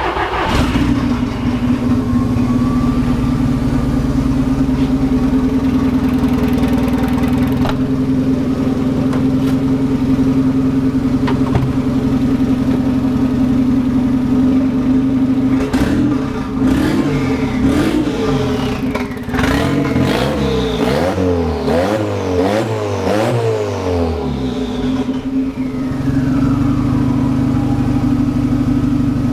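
Volkswagen Golf Mk1 engine, just started, idling steadily, then revved in a series of quick throttle blips, rising and falling, for several seconds past the middle before settling back to a steady idle.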